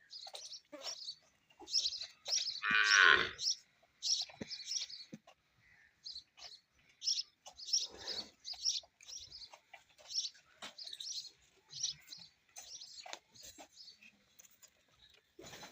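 A farm animal calling, one loud call about three seconds in and a fainter one near eight seconds, over many short, high bird chirps throughout.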